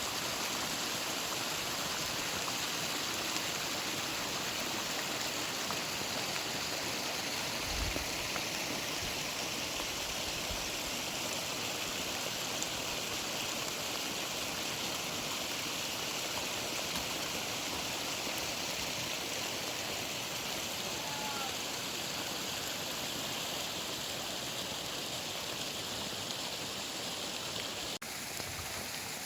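Steady, even rush of storm rainwater flowing, with a couple of brief low thumps about a third of the way in.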